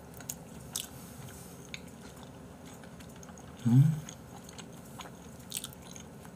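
Close-miked mouth sounds of a person chewing raw beef, with scattered small wet clicks. Just under four seconds in comes a brief hum from the closed mouth, rising in pitch, the loudest sound in the stretch.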